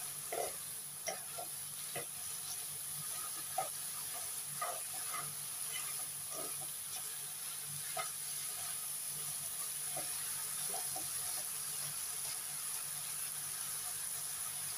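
Nam prik ong, minced meat and tomato chili paste, sizzling steadily in a nonstick wok, with irregular scrapes and taps of a slotted spatula stirring it, about one a second.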